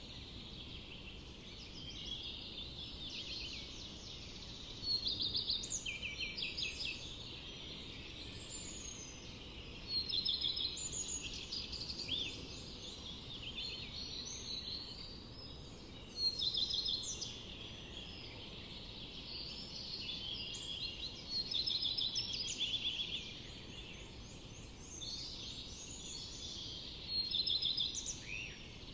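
Songbirds singing in a forest, with overlapping chirps and trills. One louder song phrase repeats about every five or six seconds, over a low, steady background hiss.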